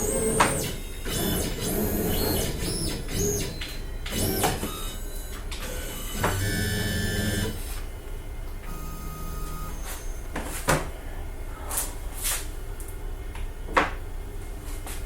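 Stepper motors of a OneFinity CNC driving the gantry in several quick moves, each a whine that rises and then falls in pitch, over the first half. After that it goes quieter, with a few sharp clicks.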